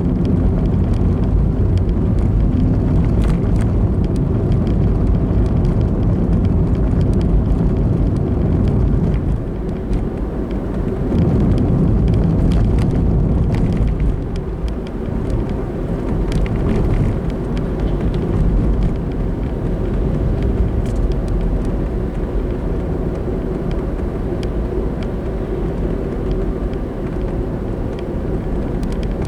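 Car driving on the road: steady low rumble of road and engine noise, easing off briefly about ten seconds in and again around fourteen seconds.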